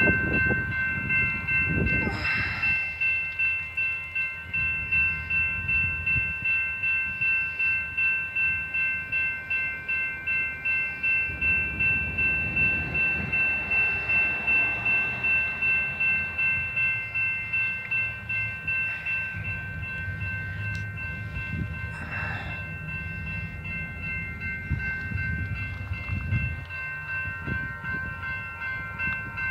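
Railroad grade-crossing bell ringing steadily, about two strokes a second, over the low rumble of a train.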